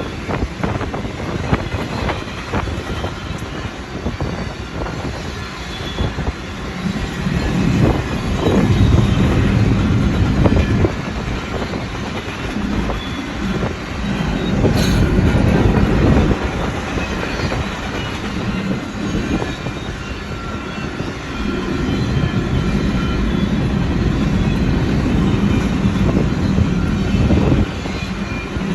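A long train's cars rolling past: a steady rumble of steel wheels on the rails with a clickety-clack from the wheels striking the rail joints, swelling louder at times.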